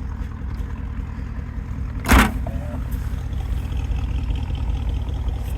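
Porsche Cayenne Turbo's twin-turbo 4.5-litre V8 idling with a steady low exhaust rumble. Its secondary catalytic converters have been deleted. A single sharp knock sounds about two seconds in.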